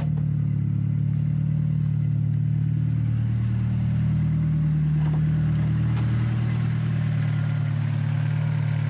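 VW Golf IV's turbocharged 1.8-litre four-cylinder (AGU) engine, fitted with a Garrett GT3071R turbo and a 3-inch exhaust, idling steadily. A sharp click comes about six seconds in.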